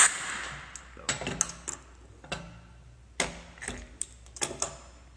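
Compressed-air blast into a motorcycle brake caliper fading out, then about nine irregular light clicks and knocks of metal parts being handled.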